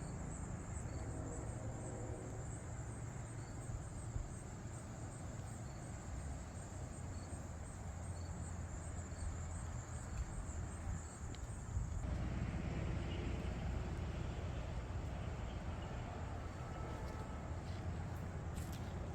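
Outdoor ambience: a steady low rumble, with a high, thin, evenly pulsing insect-like trill that cuts off suddenly about twelve seconds in, leaving a broader hiss.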